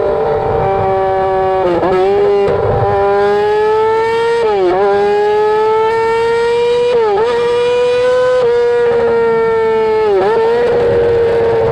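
A 2007 Yamaha R6's inline-four engine through a straight-piped exhaust, screaming high in the revs on a ride. The pitch climbs slowly and dips sharply five times, each dip recovering within a moment.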